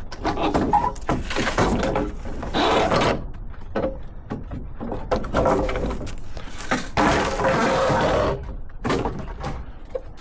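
Demolition noise: repeated crashes, knocks and clatter of structures and debris being broken apart, coming in uneven bursts.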